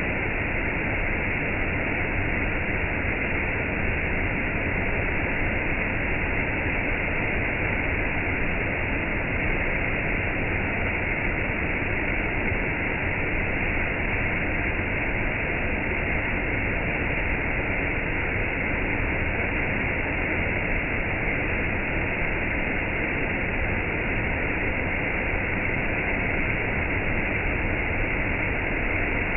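Steady rushing of rain and a waterfall, an even wash of water noise with no single drops or splashes standing out.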